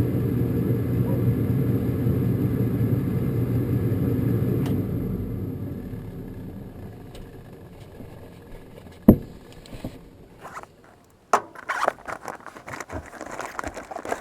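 Furnace draft inducer motor running with a steady hum, then winding down and fading out over a few seconds. Then one sharp click and a run of light metallic clicks and rattles from hands working at the furnace's burner compartment.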